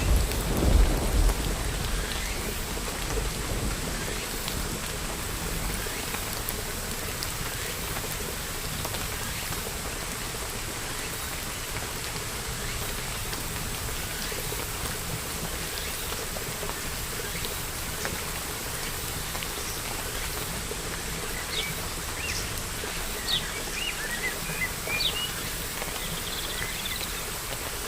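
Steady rain falling, with the low rumble of thunder dying away in the first couple of seconds. Short bird chirps come through the rain near the end.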